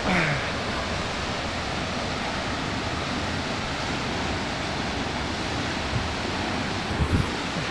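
Steady roar of a large waterfall: falling water crashing down in an even, unbroken wash of noise. A couple of low thumps come near the end.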